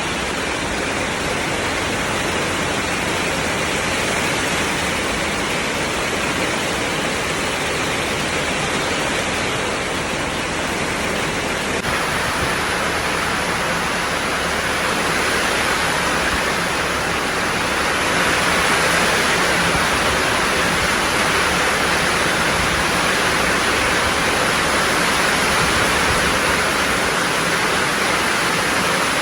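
Heavy rain falling steadily, a dense even hiss that gets a little louder about two-thirds of the way through.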